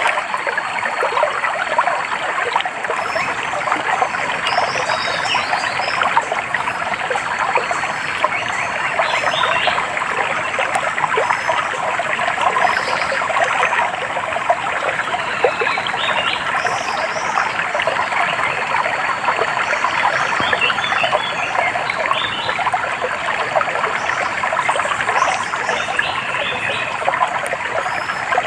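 Shallow stream trickling and babbling steadily over stones, with short high bird chirps every few seconds.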